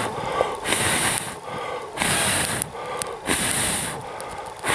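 Slow footsteps crunching in snow, about one step every second and a quarter, each a short hissing crunch, with a few sharp snaps in between.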